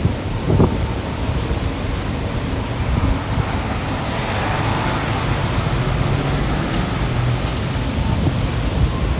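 Storm wind buffeting the microphone over rain and the steady hiss of traffic on wet streets, with a vehicle passing about halfway through.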